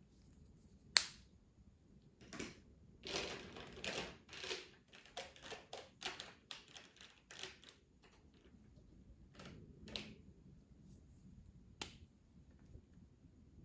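Colouring strokes scratching across paper: a run of quick back-and-forth strokes, then a few fainter ones. A sharp click about a second in, the loudest sound, and another near the end, as of a colouring tool or its cap knocked or set down.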